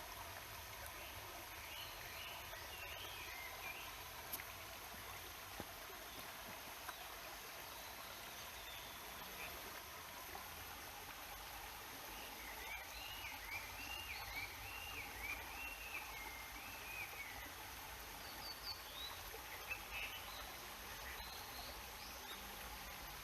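Steady rush of a mountain stream's flowing water, with small birds chirping over it: a few short calls near the start, a longer warbling run in the middle, and a few more chirps near the end.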